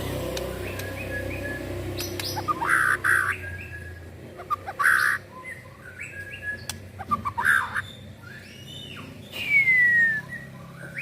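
Young white-rumped shama (murai batu) singing a varied song of short chirps, harsh buzzy notes and clear whistles, with a long falling whistle near the end.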